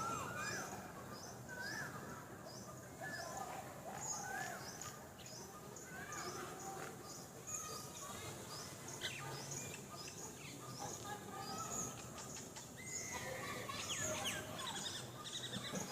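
Several wild birds calling: a short high chirp repeated over and over, with lower whistled notes in the first few seconds and a denser flurry of calls near the end.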